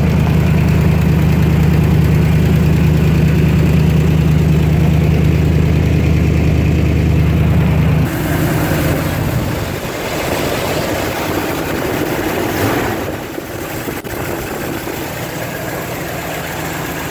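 1974 Chevrolet K10 pickup's engine idling while it warms up after a cold start. A steady low hum turns abruptly thinner and rougher about eight seconds in.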